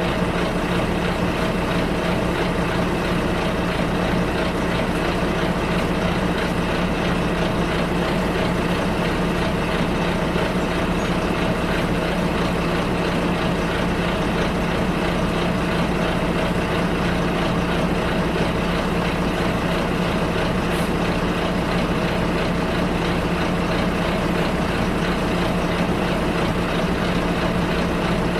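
Steady drone of a bus engine with road and cabin noise, heard from inside the bus.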